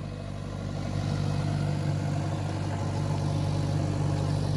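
Backhoe loader's diesel engine running with a steady low hum, dipping slightly at the start and picking back up about a second in.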